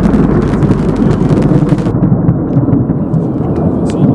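Thunder rumbling low and continuously after a lightning strike, with a hiss above it that fades about halfway through.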